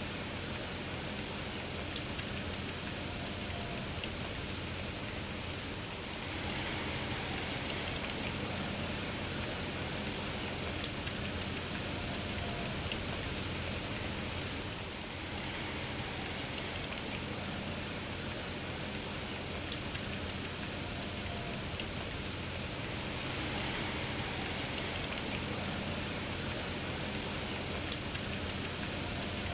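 Steady rain falling, with four sharp, louder drop-like ticks evenly spaced about nine seconds apart.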